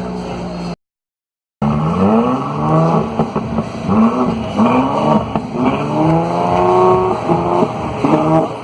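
2017 Mercedes-Benz C43 AMG's twin-turbo V6 exhaust, revved again and again, its pitch climbing and dropping with each rev, one long climb in the middle and quick short blips near the end. It starts after a brief break of total silence about a second in.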